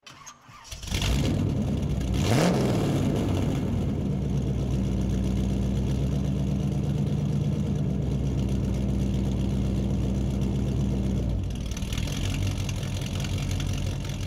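A car engine comes in about a second in, revs once at about two seconds with a quick rise and fall in pitch, then idles steadily. At about eleven seconds the sound changes and then slowly fades near the end.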